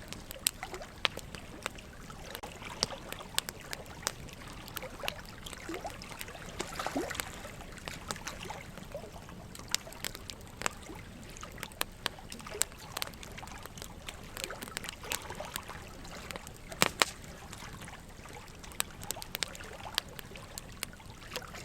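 Wood logs burning in a fireplace, crackling with frequent irregular sharp pops, a couple of louder ones about 17 seconds in, over a steady trickle of running water.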